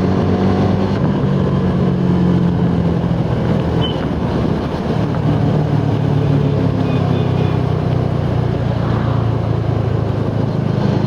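Suzuki Gixxer SF 250's single-cylinder engine running under way, heard from the rider's position. There is a brief dip about four to five seconds in, after which the engine note carries on a little lower in pitch.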